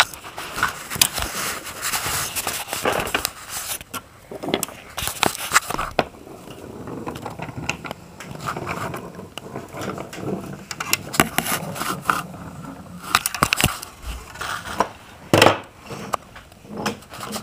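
Toy train being pushed along its track by hand: wheels rolling with irregular clicks, knocks and scrapes.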